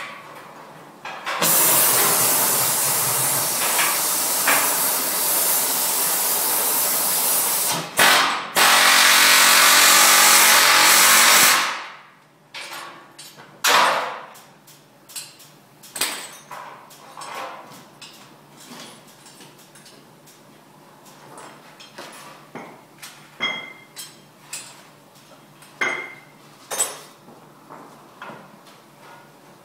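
Metalwork on a vintage Bentley chassis. A loud, steady hiss runs for about ten seconds, with a short break partway through, and cuts off sharply. Then come scattered hammer knocks and taps on steel, some of them ringing briefly.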